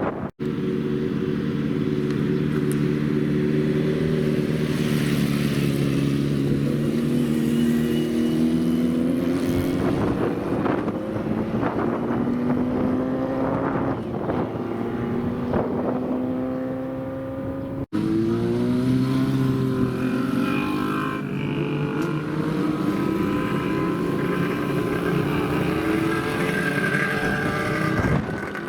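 Old motorcycle engines revving, the pitch swelling and falling, with sharp pops in the middle. An abrupt cut about 18 s in switches to another bike revving.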